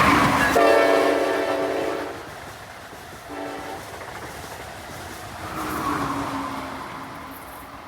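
Amtrak regional train rushing through at speed and sounding its horn: a long blast then a short one, over the loud rolling noise of the train, which then settles to a steadier rumble.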